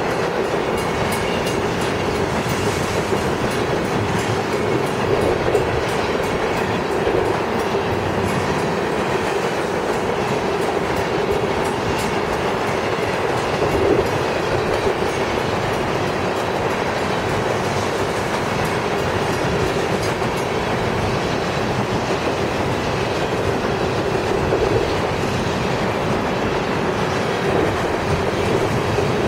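CSX freight train rolling steadily past, its wheels clattering over the rail joints with a continuous loud rumble and occasional sharper knocks.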